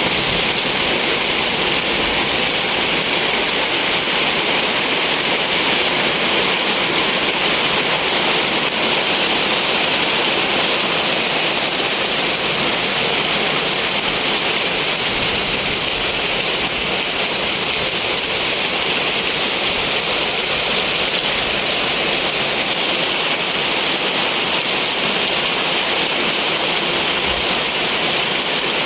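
Heavy rain pouring down, a loud, steady hiss that does not let up.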